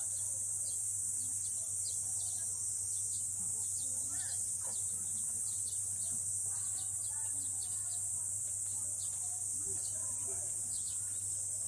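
Insects droning with a steady, high-pitched, unbroken chorus, with small bird chirps over it and faint voices in the distance.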